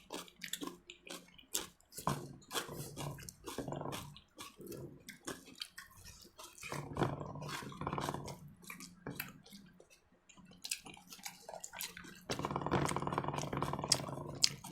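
Meal being eaten: many small sharp clicks of cutlery and plates with chewing. Three stretches of a low, buzzing, growl-like voice sound come in between, the longest and loudest near the end.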